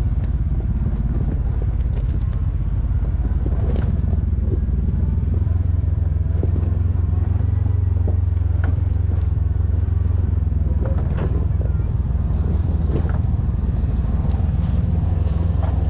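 KTM 450 SX-F single-cylinder four-stroke dirt bike engine running steadily at low revs on a rough trail, with scattered sharp knocks and clicks from the bike over rocks.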